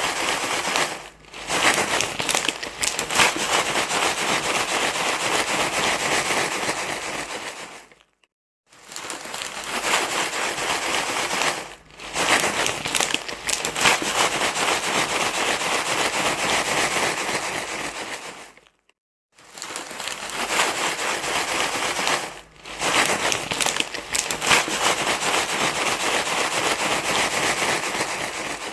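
Loud, continuous crinkling rustle in long stretches of several seconds, stopping briefly twice, played as a repeating loop meant to soothe a crying baby.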